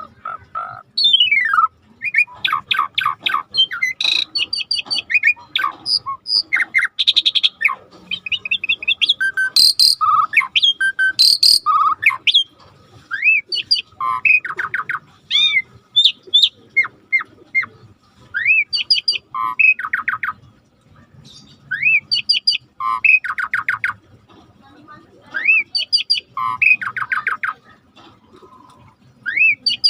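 Birds singing and calling in a dense, varied chorus: short rising whistles repeated every second or two, fast chirping trills and sharp high notes, with a faint low wash beneath.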